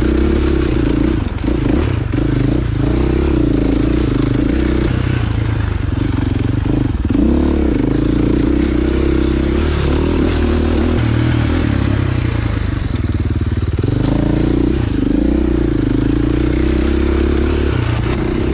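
Dirt bike engine running while being ridden, its revs rising and falling continually with the throttle.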